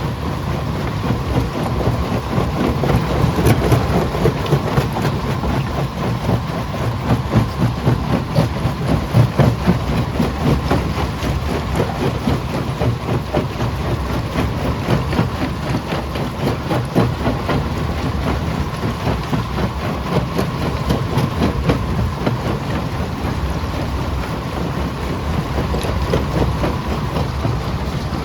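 Primary jaw crusher running and crushing rock: a loud, steady mechanical din full of rapid knocking and rattling of stone.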